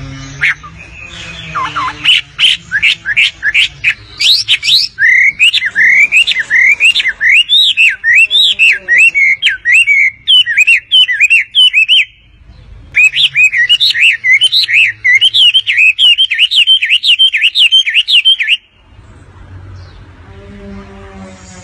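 Wambi bird in full song: a fast, continuous chatter of quick, repeated chirping notes. It breaks off briefly about halfway and stops a few seconds before the end.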